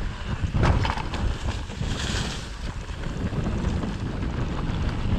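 Wind buffeting the microphone of a camera riding down a dirt mountain-bike trail, over a steady rumble and rattle of the bike on rough ground, with a few knocks from bumps.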